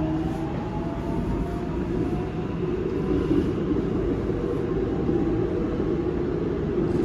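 Seoul Subway Line 7 7000-series train heard from inside the car: a faint motor whine rising in pitch fades out in the first second, leaving a steady low rumble of the wheels and running gear on the track.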